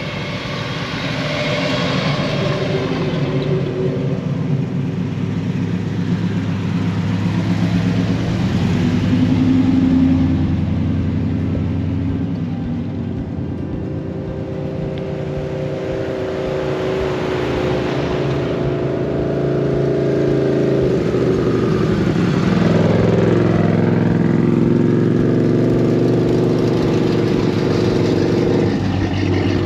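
Several car engines running as cars drive slowly past one after another. The sound swells as each one nears and fades as it goes, loudest about ten seconds in and again in the last third.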